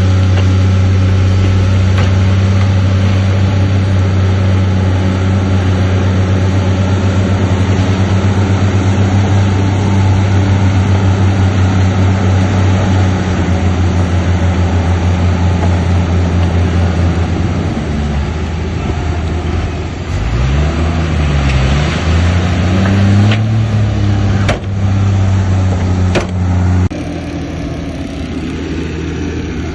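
Heavy diesel engine of earthmoving machinery running steadily under power. About two-thirds of the way through, its pitch drops and climbs back up. A few sharp clanks follow, and then it settles to a lower, quieter run.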